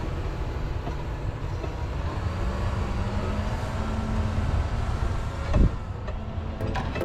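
John Deere 6145R tractor's diesel engine running steadily as it pushes snow with its blade, with a single loud thump about five and a half seconds in.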